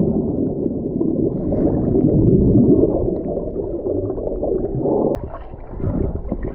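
Muffled, continuous rumble and gurgle of falling water close on the microphone, with a single sharp click about five seconds in.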